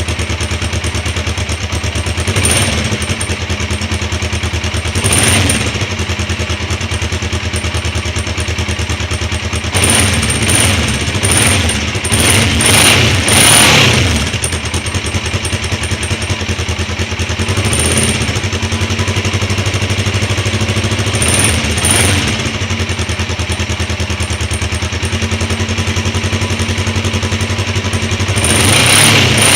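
Kawasaki KLE motorcycle engine idling through its exhaust, blipped with short throttle revs every few seconds, including a quick run of several revs about midway.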